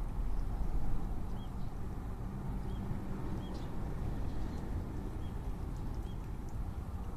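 Faint short chirps of Eurasian tree sparrows, roughly one a second, over a steady low rumble.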